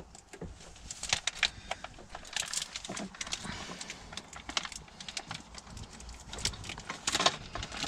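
Loose parts of a new van skylight hood kit being handled, a run of small irregular clicks and rattles.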